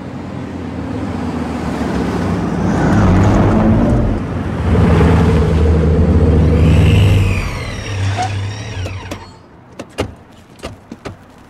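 Several tuned sports-car engines revving loudly as the cars drive up and pass, with high, falling squeals around seven seconds in. The engines die away, and a few sharp knocks follow near the end.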